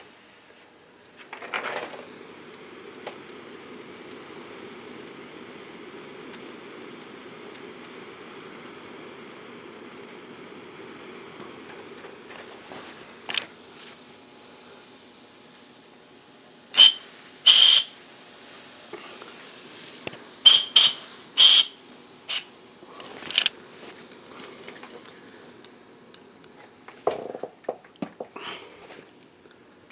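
Live steam hissing steadily from a small model boiler and steam engine, easing off about halfway, then about seven short toots of the boiler's steam whistle in quick succession.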